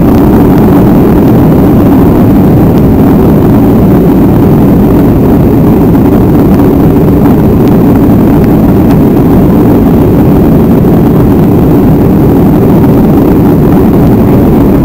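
Steady, loud jet engine noise of a GOL Boeing 737 airliner taking off, an even rumble with no change in level.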